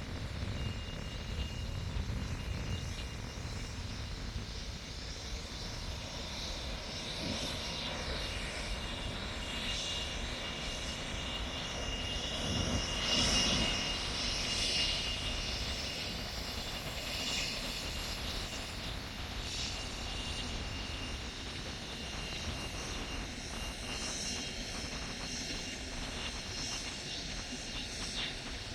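Airbus A220 jet airliner with its Pratt & Whitney PW1500G geared turbofan engines, passing overhead. The engine noise swells to its loudest about 13 seconds in, then eases off.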